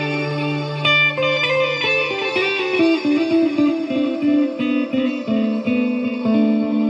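Fender Player Stratocaster electric guitar played through a Fender Mustang GTX100 modelling amp: a held chord, then a run of single picked notes from about a second in.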